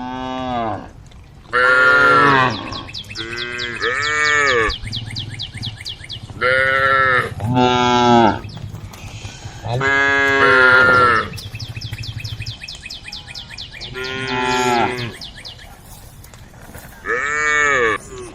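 Cows mooing again and again, about nine calls, each lasting about a second and rising then falling in pitch, some coming in quick pairs. A faint rapid buzzing runs between the calls.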